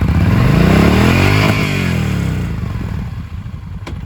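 Yamaha V-Star 1300's V-twin engine revved once: its pitch climbs for about a second and a half, then falls back to a steady idle.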